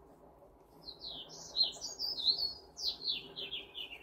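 A small bird singing: a string of high chirps starting about a second in, then a fast trill that falls in pitch near the end.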